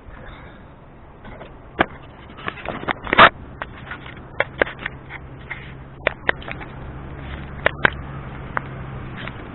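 Sharp clicks and scrapes, the loudest about three seconds in, over a low steady drone from an aircraft coming in to land that builds from about four seconds in.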